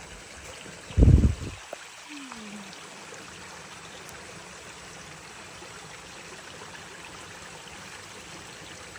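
Small creek flowing, a steady rushing trickle of water. About a second in there is a brief, loud low thump.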